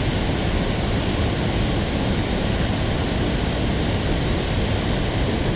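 Loud, steady rush of water pouring out of a dam's release gates into the tailwater.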